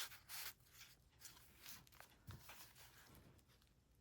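Near silence, with a short rustle of paper journal pages being handled in the first half second and faint, scattered paper rustles after it.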